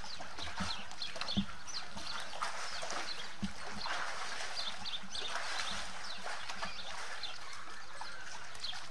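Small birds chirping repeatedly in short, quick notes over a steady hiss, with a couple of soft knocks.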